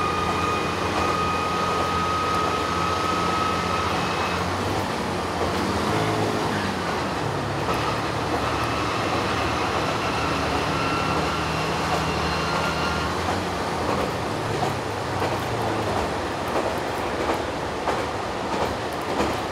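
Inside a diesel railcar running at speed: the engine drones under the noise of the wheels on the rails. A thin steady whine is heard for the first few seconds, and the engine note shifts about six seconds in. Near the end come sharp clicks of the wheels over rail joints.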